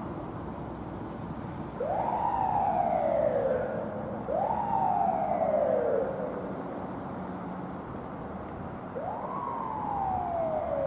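Fire truck siren giving three short wails, each quickly rising and then sliding slowly back down, the first two back to back and the third after a pause of a few seconds. A steady low vehicle rumble runs underneath.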